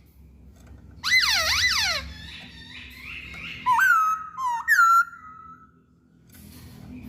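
Masked laughingthrush (Poksay Hongkong) singing loud whistled phrases: a quick run of falling whistles about a second in, then a phrase of slurred whistles with sharp upward flicks around four to five seconds in.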